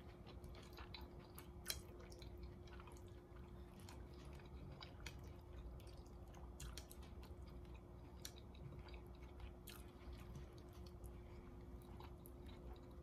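Faint chewing of a mouthful of orange chicken, with scattered small clicks as chopsticks pick at food on the plate. A faint steady hum sits underneath.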